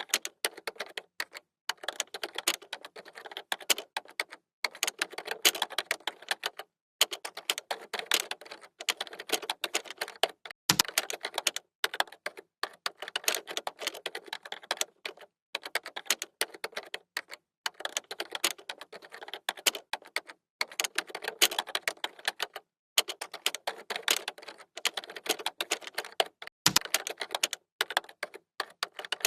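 Computer keyboard typing: rapid runs of key clicks in bursts of a second or two with short pauses between, and twice a heavier thump, like a space bar or a key struck hard.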